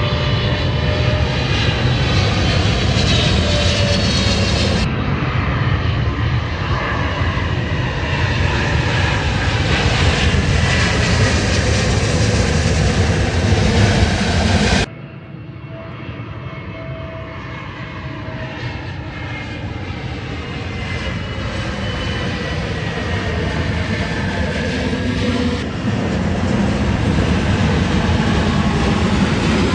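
Commercial jet airliners on approach passing low overhead: a loud, steady engine roar with whining tones that slide down in pitch as each aircraft goes by. The sound breaks off abruptly and picks up again about three times, with a sudden drop in loudness midway that then builds up again.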